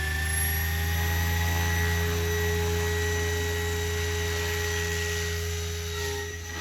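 SAB Goblin Raw 700 electric RC helicopter running, its three-blade main rotor giving a steady low hum under a high electric-motor whine. The whine rises in pitch over the first two seconds as the motor is switched on and the head speed climbs, then holds steady.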